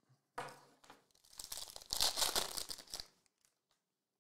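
A trading-card pack wrapper being torn open and crinkled. It starts with a sudden rip about half a second in, grows into a longer, louder stretch of crinkling and tearing, and stops about three seconds in.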